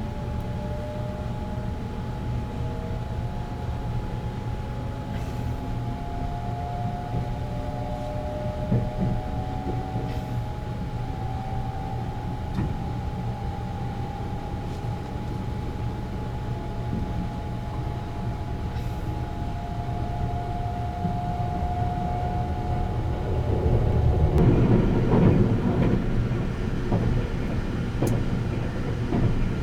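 Sunrise Express sleeper train (285 series electric multiple unit) running at speed, heard from on board: a steady rumble under a motor whine that slides slowly up and down in pitch. About 24 seconds in, the running noise grows louder and rougher.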